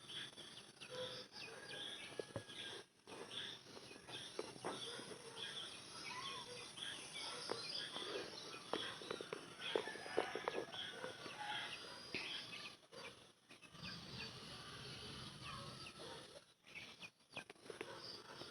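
Outdoor ambience of many birds chirping and calling, with a run of short sharp clicks about halfway through.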